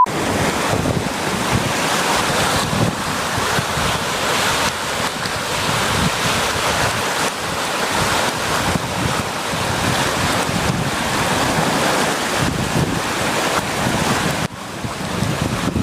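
Heavy storm surf crashing and surging, with strong wind buffeting the microphone. The level drops briefly near the end.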